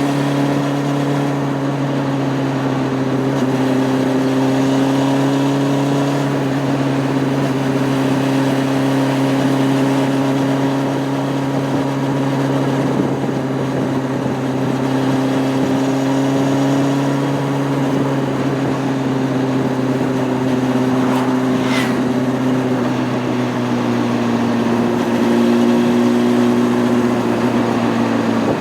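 Honda CB600F Hornet's inline-four engine running at a steady cruise, its pitch drifting gently as the throttle eases and comes back on.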